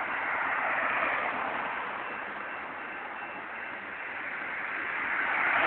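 Freight train cars rolling past, a steady rushing clatter of steel wheels on rail that swells about a second in and again near the end.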